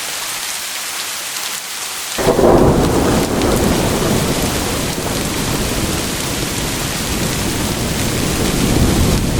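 Steady heavy rain hissing. About two seconds in, a thunderclap breaks in suddenly and rolls on as a deep rumble under the rain for the rest of the time.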